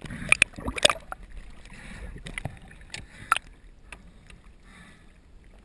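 Water sloshing and splashing around the camera, with a few sharp knocks; the loudest come near the start and about three seconds in.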